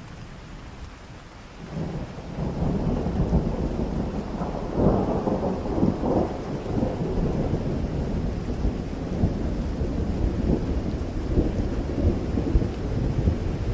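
Rain falling steadily, then about two seconds in a long rolling thunder rumble sets in over it and keeps going, swelling loudest around five seconds in.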